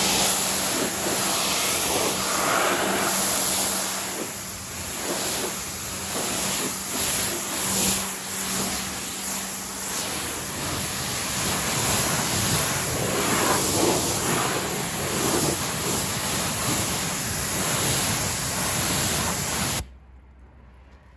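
AVA of Norway P80 pressure washer spraying a high-pressure jet of water onto a car's bodywork, a loud steady hiss of spray with a low hum under it for the first half. The spray cuts off suddenly about twenty seconds in.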